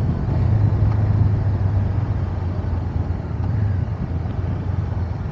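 Motorcycle engine running at a steady road speed, with wind and road noise over it.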